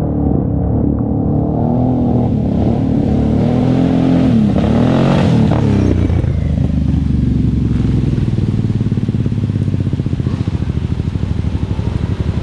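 Off-road vehicle engine running, revving up and back down about four to six seconds in, then settling into a steady, evenly pulsing low run.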